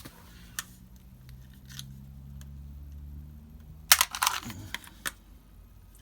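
Sharp metallic clicks and a short loud clatter about four seconds in, over a low steady hum that stops just before the clatter.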